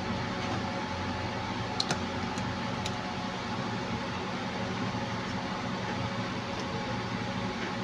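Steady fan-like mechanical hum, with a few light clicks about two seconds in.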